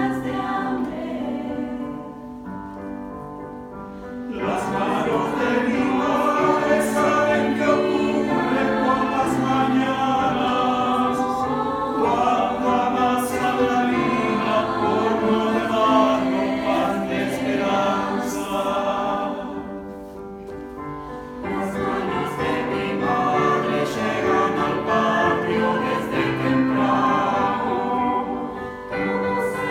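Youth choir singing in concert, full-voiced, easing to softer passages about two seconds in and again about two-thirds of the way through before swelling back.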